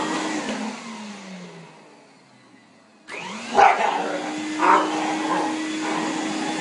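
Vacuum cleaner motor switched off and winding down with a falling whine to near silence, then switched back on about three seconds in and spinning up with a rising whine to a steady run. A dog barks twice over the restarted vacuum.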